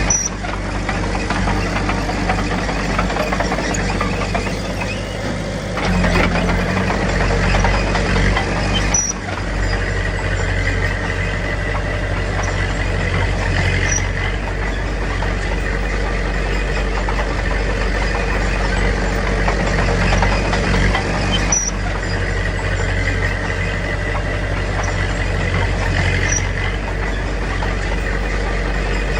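Diesel engine of heavy earthmoving machinery running steadily, its note shifting with load about six seconds in.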